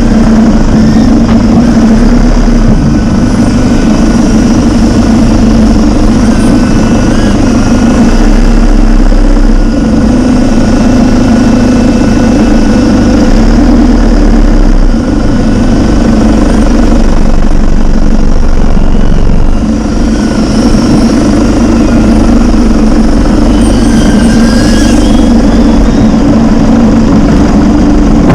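A vehicle engine running loud and steady at a constant pitch, with only brief small dips in level.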